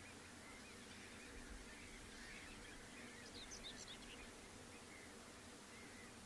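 Faint wild birdsong: scattered short chirps, with a brief run of higher notes about three and a half seconds in.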